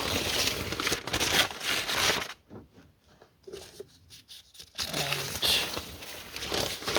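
Newspaper sheets rustling and crinkling as they are handled and spread out, in two spells with a quieter lull in the middle.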